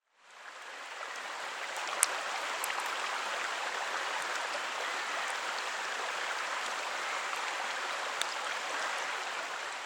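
Steady rush of water, fading in at the start, with a few sharp taps, the loudest about two seconds in.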